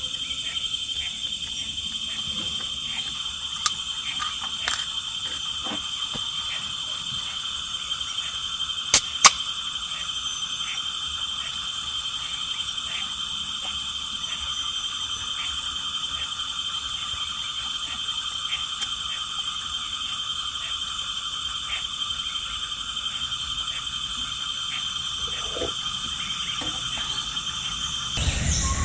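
Steady chorus of calling frogs and insects: a dense, ringing drone with a faint regular pulse. A few sharp clicks cut through it, two of them close together about nine seconds in.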